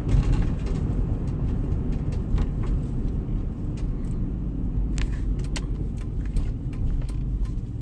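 Chevrolet Camaro heard from inside the car while it drives: a steady low engine and road rumble, with scattered light clicks over it.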